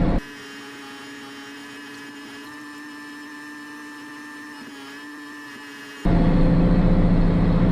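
Case 2670 tractor's diesel engine running loud in the cab, which drops out almost at once to about six seconds of a much quieter steady hum with a few fixed whining tones, then comes back suddenly just after six seconds in.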